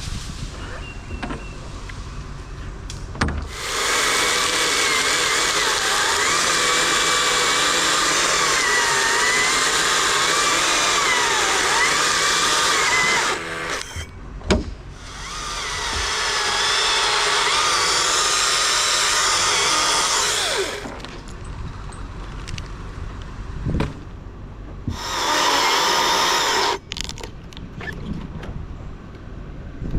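Chainsaw cutting wood in three long cuts, its engine note wavering under load, dropping back to a quieter idle between cuts.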